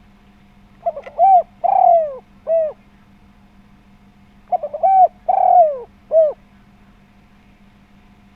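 Spotted dove cooing: two phrases about three seconds apart, each of four notes (a short note, a longer one, a long falling one, then a short closing note), over a faint steady hum.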